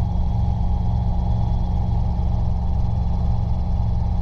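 Cabin noise of a Robinson R22 helicopter in flight: engine and rotor making a steady low drone with a fast, even beat from the rotor blades.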